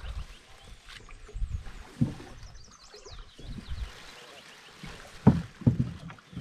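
Canoe paddling: irregular paddle strokes splashing in the water and knocking against the hull, the loudest pair a little after five seconds in.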